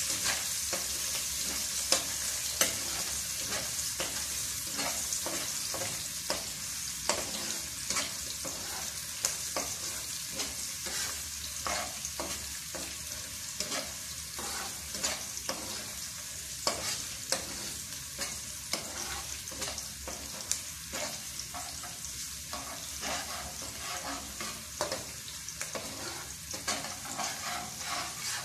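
Chopped onion, lemongrass, ginger and garlic sizzling in hot oil in a wok, stirred with a metal fork that clicks and scrapes against the pan again and again. The aromatics are being sautéed until golden.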